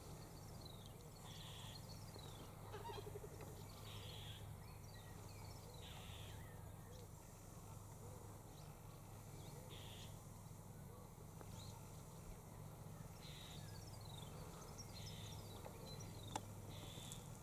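Faint birds calling in short repeated bursts, one every second or two, some of the calls falling in pitch, over a steady low hum. A single sharp click comes near the end.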